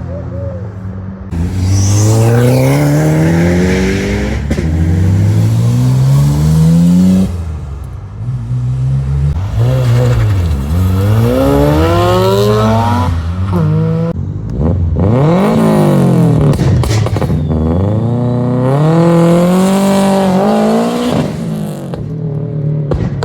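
Modified cars accelerating hard away one after another, engines revving up through the gears: the pitch climbs again and again and drops suddenly at each shift.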